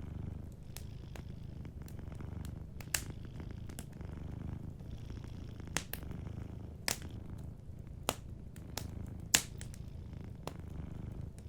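Domestic cat purring steadily in a low, even rumble, with a wood fire crackling and giving off sharp pops every second or two, the loudest pop about nine seconds in.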